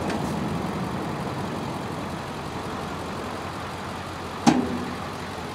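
Pontiac Grand Am's engine running at low revs as the car creeps forward into a box truck, with one sharp knock about four and a half seconds in.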